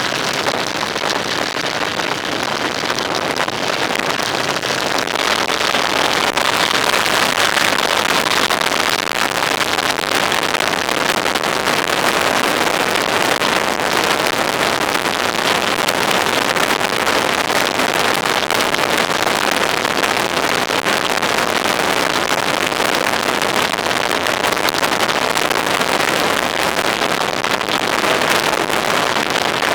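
Steady, loud rushing of wind and road noise from a vehicle on the move, with a faint engine tone under it in the first few seconds.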